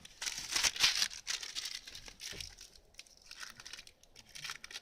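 Small plastic condiment sachet of dried green onion crinkling and crackling as it is worked at and torn open, with no tear notch to start it. It is loudest in the first second, then goes on as lighter crackles.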